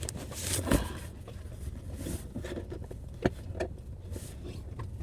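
A cardboard box being handled and worked open: rustling and scraping with a sharp knock about a second in and two more near the middle. A steady low hum from the car interior runs underneath.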